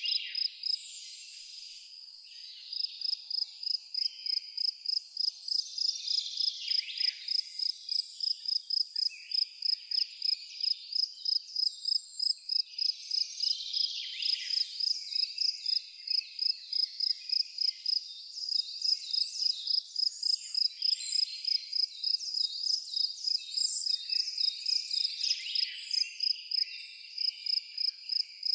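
An insect chirping in a steady, fast rhythm, about three high chirps a second, pausing briefly near the start, with birds chirping and calling behind it.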